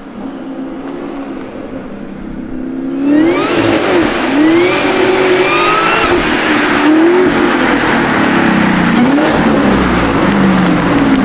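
Camaro ZL1 V8 through a custom exhaust. It runs steadily for about three seconds, then is revved hard several times in quick rises and falls.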